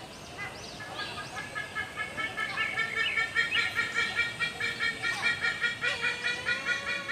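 A bird calling in a rapid repeated series, about three calls a second, growing louder from about two seconds in, over higher chirps from other birds in the first seconds.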